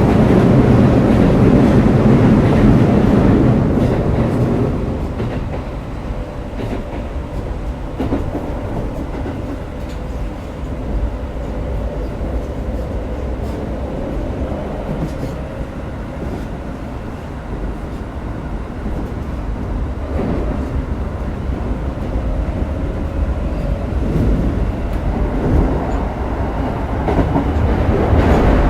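Interior running sound of a Keikyu 1000 series motor car with its original Siemens traction equipment: a steady rumble of wheels on rail with scattered clicks from rail joints. It is loudest for the first few seconds, eases off about five seconds in, and builds again near the end, with a faint steady hum in the middle stretch.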